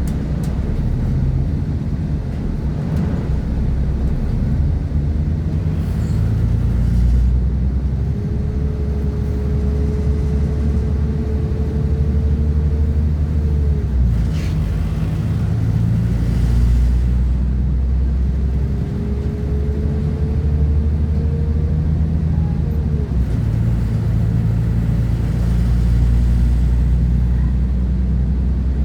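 A Class 172 Turbostar diesel multiple unit heard from on board while running: a steady low rumble from its underfloor diesel engine and wheels on the track, with a faint whine that rises slowly in pitch twice.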